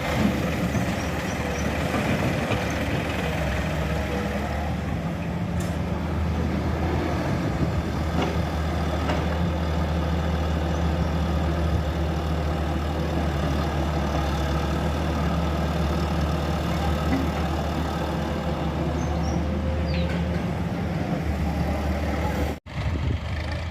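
Tractor engine running steadily at a constant speed, with a momentary dropout near the end.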